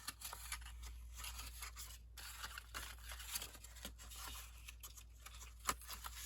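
Faint rustling and scraping of paper and card being handled and slid about on a tabletop, with a few small taps.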